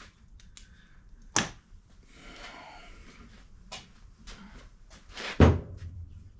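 Brake parts and tools being handled on a workbench: a few scattered clicks and knocks, a short rustle, then a louder thud about five seconds in as something is set down.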